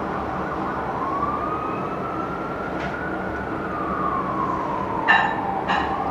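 Fire engine siren on a slow wail, rising, falling and rising again over a steady low engine and traffic rumble. Two short horn blasts sound near the end, the first the loudest.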